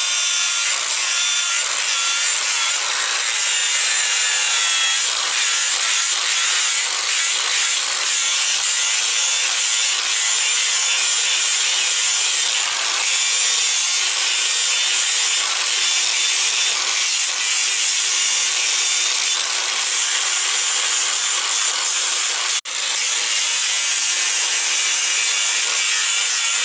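Power grinder taking down a horse's hoof: a loud, steady grinding noise with a faint motor whine, breaking off for an instant about 23 seconds in and starting again.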